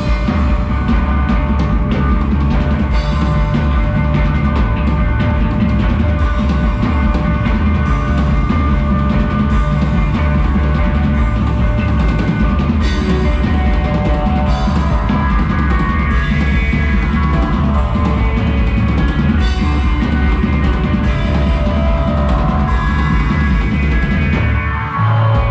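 Rock band playing an instrumental passage live, drum kit driving it, with no vocals.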